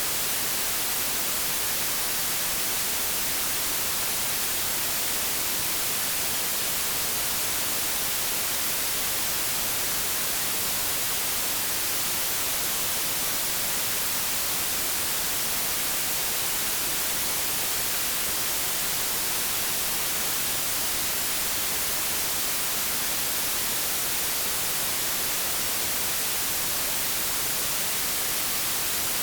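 Continuous white-noise static, an even, unchanging hiss strongest in the high range.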